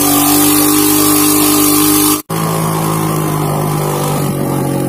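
Motorcycle engine running steadily while climbing a steep uphill track. About two seconds in the sound drops out for an instant, then comes back with the engine at a lower pitch.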